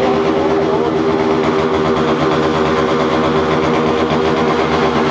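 Motorcycle engine running at a steady, fairly high speed, loud and even.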